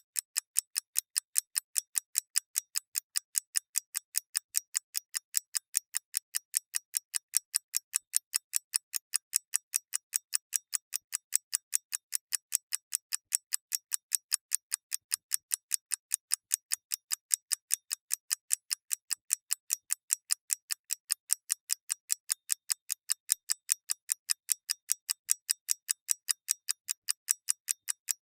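Mechanical clock ticking in a fast, perfectly even rhythm of crisp, high clicks.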